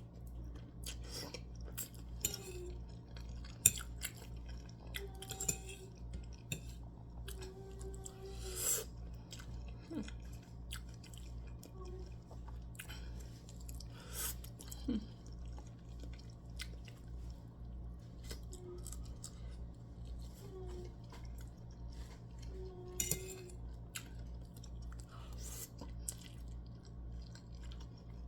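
A person chewing food close to the microphone: scattered mouth clicks and crunches with a few short hums, over a steady low hum.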